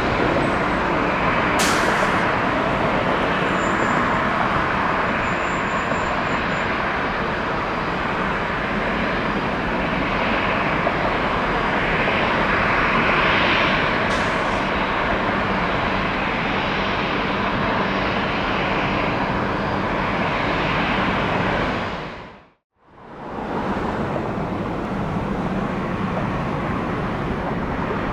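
Jet airliner engine noise, a steady, even rushing sound. It dips to silence for a moment about 23 seconds in and then returns.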